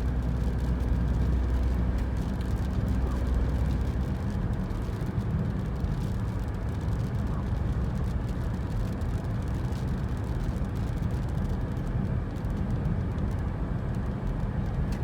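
Steady road noise of a car driving along a highway: a low engine drone with tyre noise over it. The deepest rumble eases about four seconds in.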